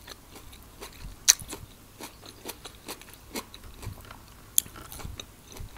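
A person chewing a mouthful of quinoa salad with cucumber, corn and cherry tomatoes: soft, irregular wet mouth clicks and crunches, with two sharper clicks, one about a second in and one near the end.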